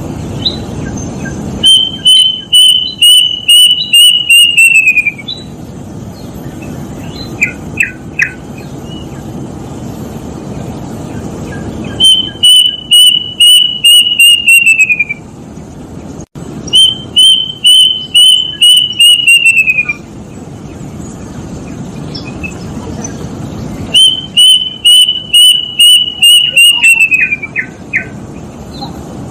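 Kedasih (plaintive cuckoo) singing four times: each song is a quick run of about nine or ten clear whistled notes that falls in pitch at the end. A few short single notes come between the first and second songs. There is a steady hiss behind it.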